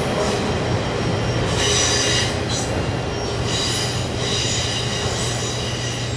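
Autorack freight cars rolling along the rails on a curve, a steady rumble of wheels and track, with wheels squealing in high-pitched tones that come and go.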